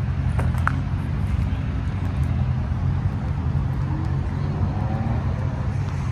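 A car engine idling steadily with a low, even hum. There are two short clicks about half a second in.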